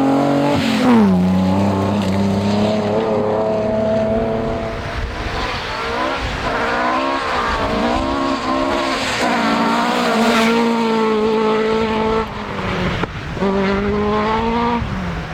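Historic rally car engines running hard on a special stage. The engine note drops sharply about a second in, rises and falls repeatedly through the middle as the throttle is worked and gears change, briefly dips about thirteen seconds in, then falls away near the end.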